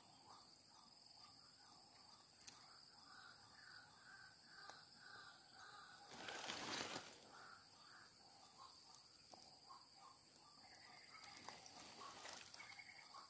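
Faint bird calls, a short note repeated about twice a second in long runs, over a steady high drone of insects. About six seconds in, a noisy rustle lasting about a second is the loudest sound.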